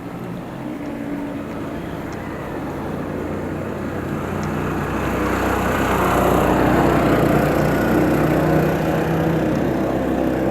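A motor vehicle's engine on the road, growing louder about halfway through as it draws near, over a steady rush of wind and road noise.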